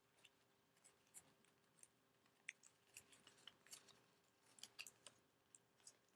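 Faint, irregular crinkles and small clicks of origami paper being creased and pressed flat by hand, as a squash fold is made on the beak.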